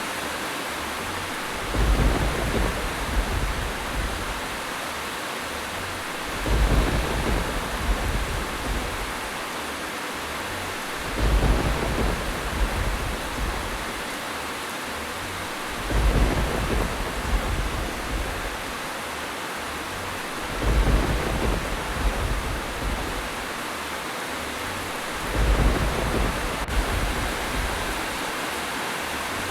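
Steady rain hiss with low thunder rumbles swelling up about every four and a half seconds, evenly spaced like a loop.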